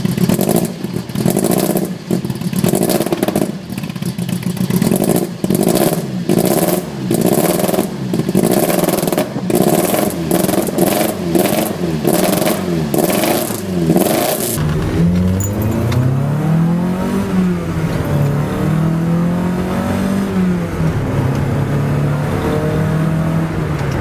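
Lancia narrow-angle V4 engine revved in quick repeated blips, with sharp cracks among the revs. Then, heard from inside a Lancia Fulvia's cabin, it pulls up through the revs and drops back several times as the car is driven through the gears.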